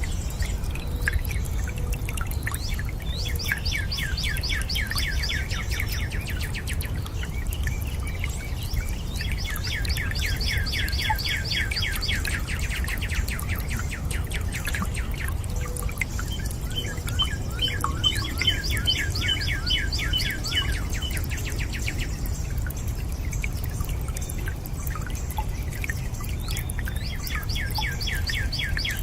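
Steady rush of running water, with a bird singing a fast trill of rapidly repeated chirping notes four times, each trill lasting about three seconds.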